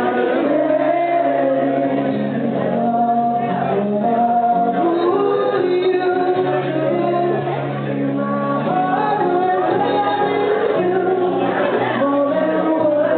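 Music with men and women singing together in a group, holding long notes, in a large room.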